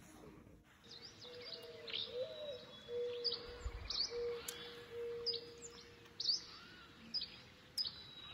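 Birds calling outdoors: short, sharp chirps repeated every half-second to a second, over a steady lower whistled note that bends once and fades out about halfway through.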